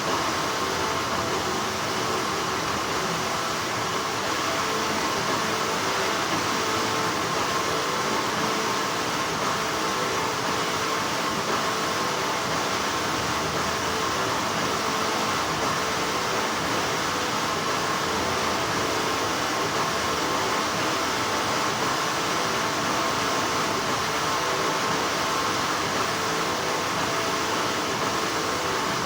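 Steady hum of textile-factory machinery: a constant mechanical drone with faint steady tones running through it.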